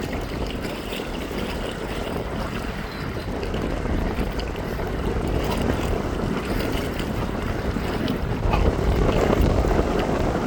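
Strong wind of about 25 knots buffeting the microphone: a steady, low rumbling rush with no distinct events, growing a little louder about eight seconds in.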